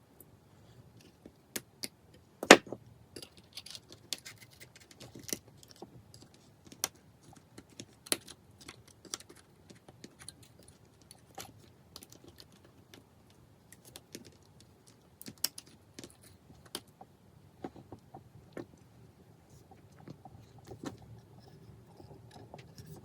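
Irregular light clicks and taps of small repair tools and phone parts being handled while an iPhone is taken apart, with one louder knock about two and a half seconds in.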